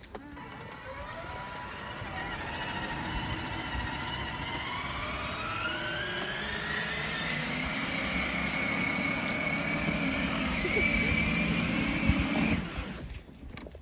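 A vehicle's motor or engine whine rising steadily in pitch for several seconds as it gathers speed, then holding steady and cutting off suddenly near the end.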